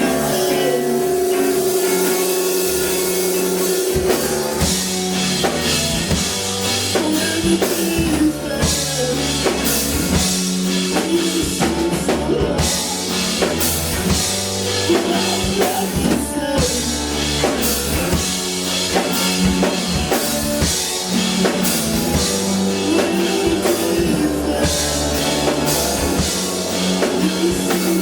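Live rock band playing with drum kit, bass and guitar, a steady beat throughout.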